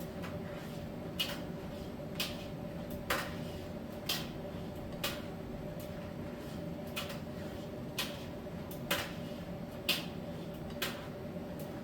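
Miele T1 heat-pump dryer running mid-cycle: a steady hum with a constant tone, and a sharp click or light knock about once a second as the load tumbles in the drum.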